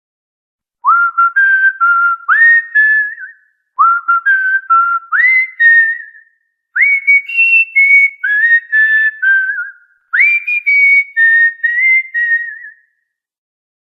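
Cockatiel whistling a short tune four times, each phrase opening with a rising swoop into a few held, clear notes. The first two phrases are nearly identical; the last two sit a little higher.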